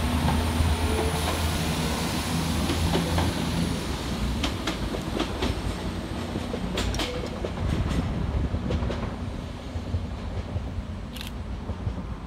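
West Midlands Railway Class 196 diesel multiple unit pulling away, its engines running steadily for the first few seconds and then fading. Its wheels then click repeatedly over rail joints and points as it draws off into the distance.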